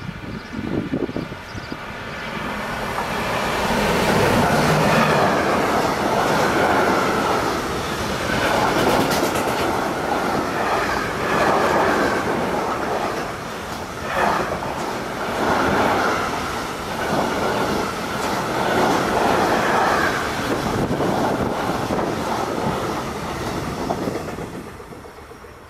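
Freight train of long bogie hopper wagons passing close by at speed. The rolling noise builds over the first few seconds, stays loud with a rhythmic clatter of wheels, and dies away near the end as the last wagons pass.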